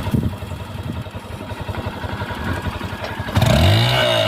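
Small motorcycle engine running with a rapid low putter, then revving up and dropping back about three and a half seconds in.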